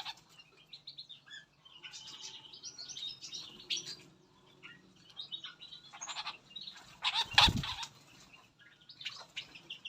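Small aviary birds chirping and twittering in short, overlapping calls. About seven seconds in comes a loud rustling burst lasting under a second.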